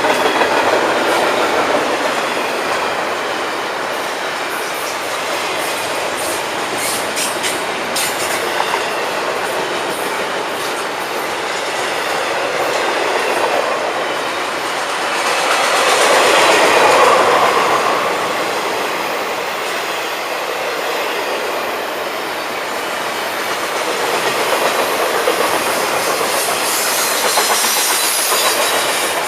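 Florida East Coast Railway freight cars rolling past, their steel wheels clattering over rail joints, with some high wheel squeal. The sound swells louder about halfway through.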